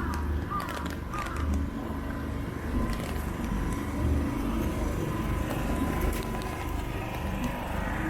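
City street ambience with car traffic, under a steady low rumble and a faint constant tone.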